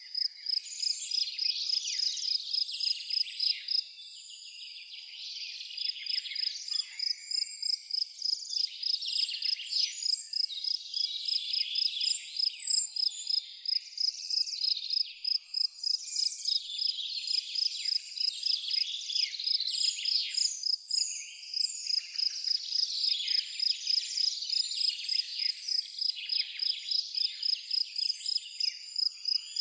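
Evening nature ambience: an insect, cricket-like, chirping in a steady high pulse about three to four times a second, with many birds singing and chirping over it.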